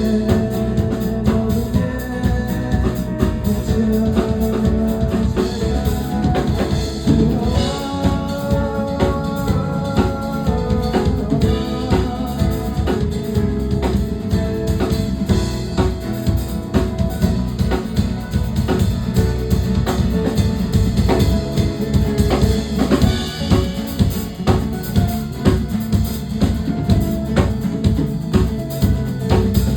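Band playing an instrumental passage of a song: a drum kit with kick, snare and rimshots keeps a steady beat under sustained pitched instruments.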